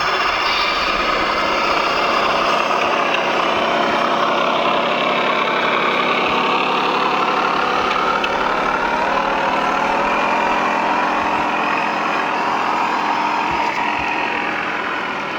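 Radio-controlled model construction machines running: a steady engine sound overlaid with several whining tones that glide up and down.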